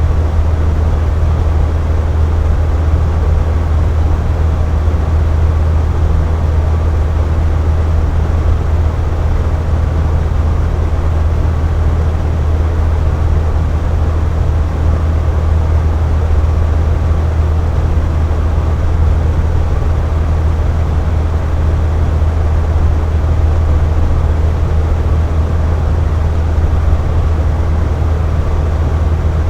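Box fan running at a steady speed: a strong low hum under an even rush of air, with no change in speed or pitch.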